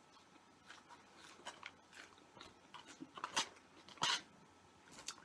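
Plastic takeout containers and their lids being handled: a run of light crackles and clicks, with two louder snaps about three and a half and four seconds in.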